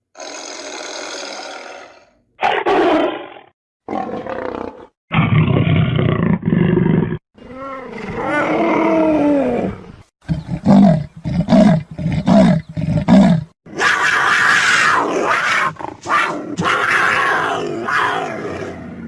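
A run of separate recorded animal sound effects, about eight short clips with brief silences between; one in the middle has calls that bend up and down in pitch, and a longer, harsher one comes near the end.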